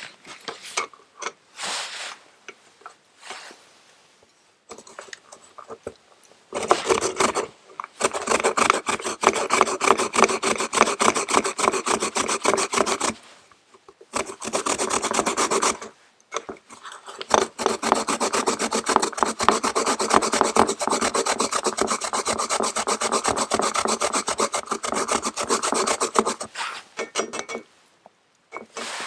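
Daikon radish being grated by hand on a grater: rapid rasping strokes in long runs, with two short pauses.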